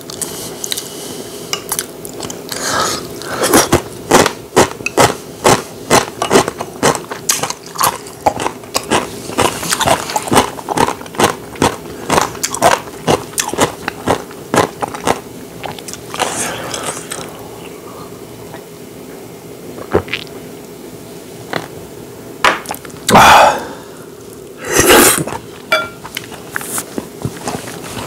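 Close-miked chewing of rice mixed with spicy stir-fried webfoot octopus: short mouth clicks about twice a second, thinning out midway, with two loud airy bursts near the end.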